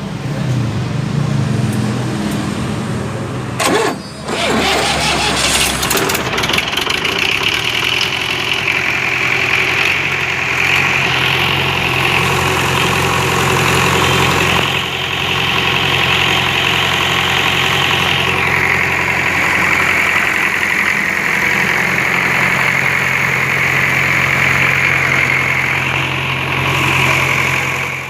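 Type 495 four-cylinder diesel engine running. Its pitch drops over the first couple of seconds, there is a short clatter with a dip in loudness about four seconds in, and then it runs steadily.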